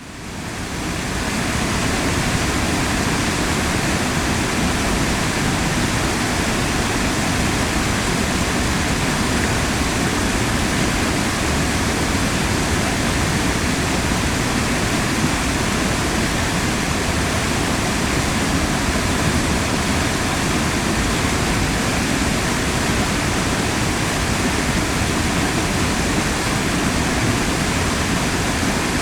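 A large waterfall's steady rush of falling water, fading in over the first second and then holding constant.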